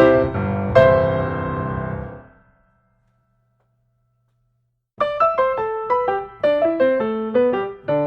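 Piano music: a phrase of notes that dies away, about two and a half seconds of silence, then a new run of quick notes.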